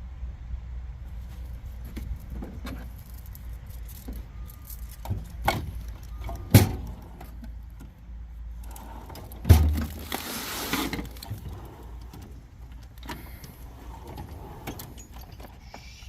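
Metal clinks and knocks of tools and parts during truck repair work over a steady low rumble, with two loud knocks and a hiss of about a second just after the second knock.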